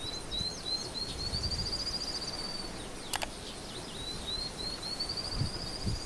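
A songbird sings two long phrases of quick repeated high notes, each climbing slightly in pitch and lasting about two and a half seconds. A single sharp click falls between the phrases, about three seconds in, over a steady background hiss.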